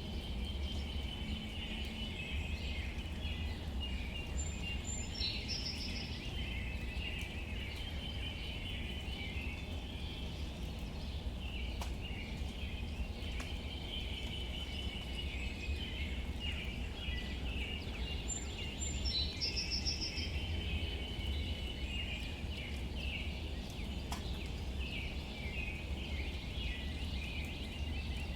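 Outdoor nature ambience: birds chirping steadily, with a short high call heard twice, over a low steady rumble.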